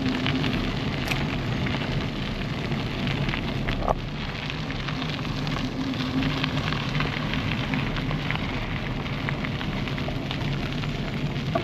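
Bicycle riding heard through an action camera's microphone: the tyres rolling over the path with a steady crackle, and wind on the microphone. There is a brief squeak about four seconds in.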